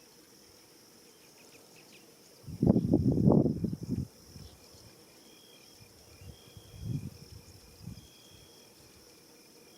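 Insects calling steadily, with short high trills repeating every second or so. About two and a half seconds in, a low buffeting rush lasts over a second and is the loudest sound; two smaller ones come later.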